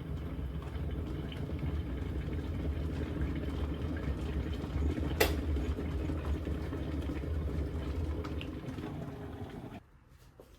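A kitchen appliance running with a steady low hum and a rushing noise, with one sharp click about halfway through. It cuts off abruptly shortly before the end.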